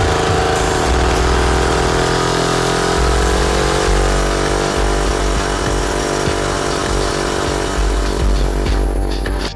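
Small single-cylinder pit bike engine running steadily.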